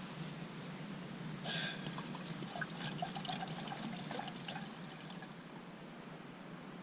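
Water splashing once about a second and a half in, followed by a few seconds of trickling and dripping.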